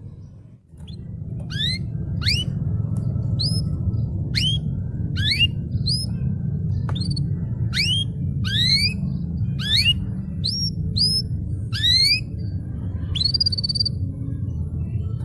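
Domestic canary singing: a string of quick rising whistled notes, about one or two a second, with a short held trill near the end, over a steady low hum.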